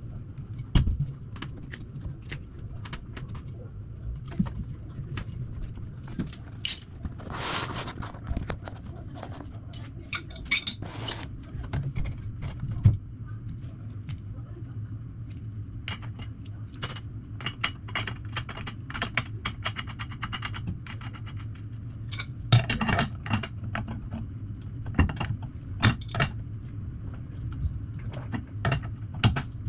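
Metal tools and small parts clicking and clinking in irregular taps, with a couple of longer scraping rattles, over a steady low hum.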